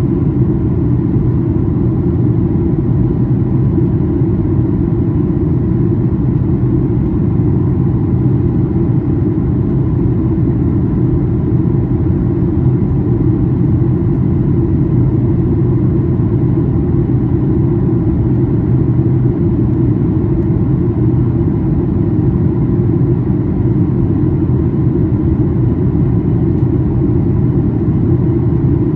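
Steady cabin noise of a Boeing 737-800 on descent: a constant low drone of airflow and its CFM56-7B jet engines, with a faint steady whine above it.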